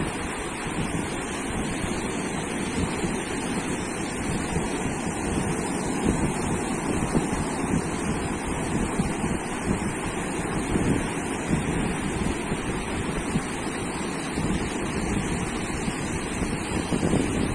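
Ocean surf washing onto a sandy beach in a steady, continuous rush, with wind rumbling on the microphone.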